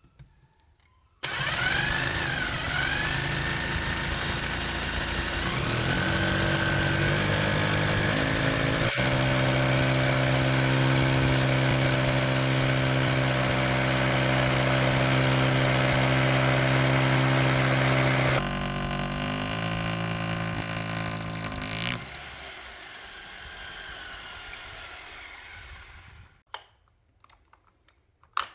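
Electric drill motor switched on abruptly and running at a steady pitch, the pitch stepping up a few seconds in, then slowing and winding down with a falling pitch near the end.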